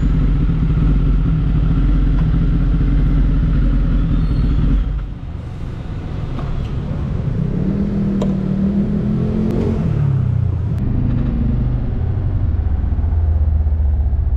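Kawasaki ZX-10R inline-four engine idling steadily; about five seconds in the engine note stops and a lower rumble carries on.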